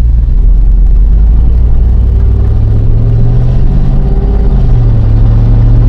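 2000 GMC pickup truck's engine running loud under way, its drone rising a little about two seconds in and then holding steady.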